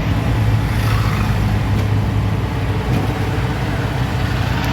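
Steady engine hum and road noise from a moving vehicle on a highway.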